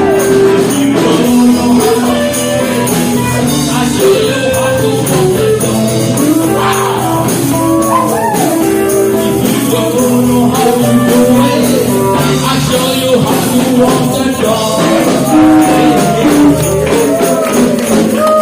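A band playing a rock-and-roll instrumental passage, with sustained notes and bending melody lines over a steady low end.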